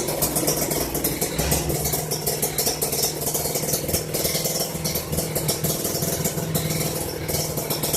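Kawasaki Ninja R two-stroke single with a mildly ported engine, idling through a standard AITECH aftermarket exhaust, with an uneven, jagged beat.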